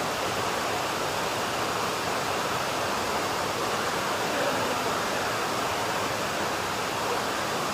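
Heavy rain, a steady dense hiss.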